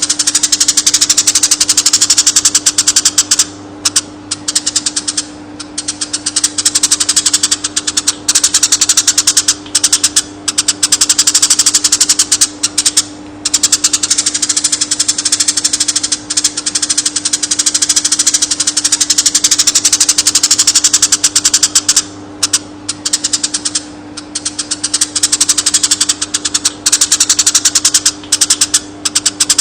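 Eurasian tree sparrow song for bird training: long, very fast rolling trills of chirps, broken by short pauses every few seconds, over a steady low hum.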